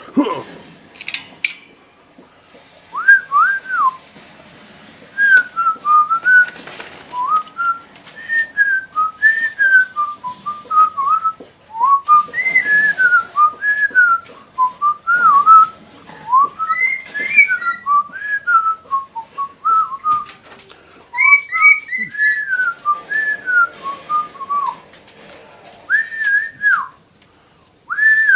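A melody whistled in a long run of short, clear notes that glide up and down, with brief pauses between phrases.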